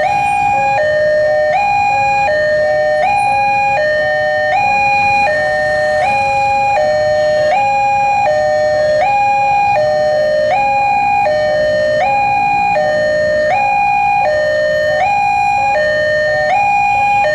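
Railway level-crossing warning alarm sounding continuously, an electronic two-tone chime alternating high and low about once a second, the crossing's signal that a train is approaching.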